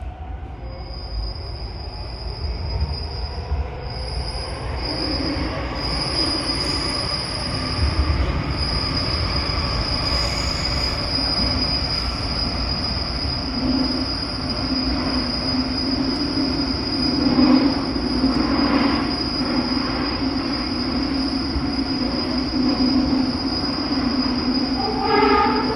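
MARTA rapid-transit train running, heard from inside the car: a low rumble from the wheels and running gear, with a steady high-pitched squeal held over it from about a second in.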